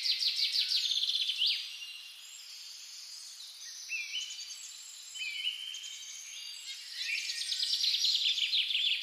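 Birds chirping and trilling: rapid runs of high repeated notes mixed with short whistled notes. They are loudest at the start and again for the last couple of seconds.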